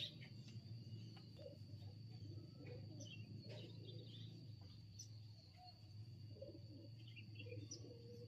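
Faint rural outdoor ambience: scattered short bird chirps over a steady, thin high tone and a low hum.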